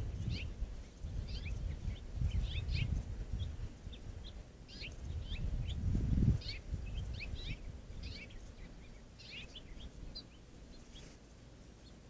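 Birds chirping in quick clusters of short, high calls, thinning out near the end, over a low uneven rumble that swells about six seconds in.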